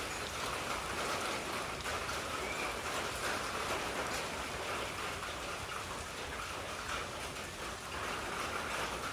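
Monsoon rain falling steadily: a continuous even hiss of drops.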